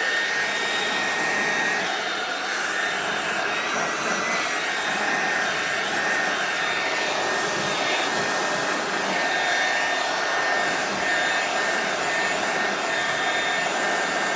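Handheld hair dryer fitted with a duck-bill concentrator nozzle running steadily, blowing wet acrylic paint across a pour. It makes a steady rush of air with a faint high whine.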